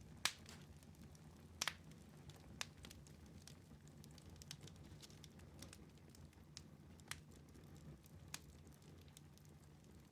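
Wood fire in a fireplace crackling faintly, with a few sharp pops: the loudest about a quarter second in, a quick double pop near a second and a half, and single pops later on.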